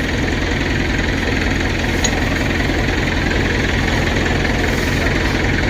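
Diesel engine idling steadily: an even low rumble that holds one speed throughout.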